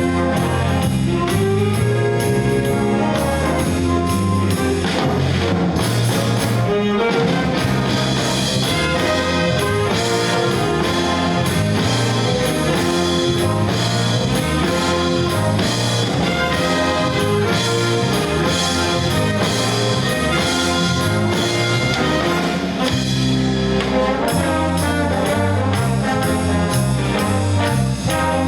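High school jazz band playing live: a brass and saxophone section with trumpets and trombones over a moving bass line and drums.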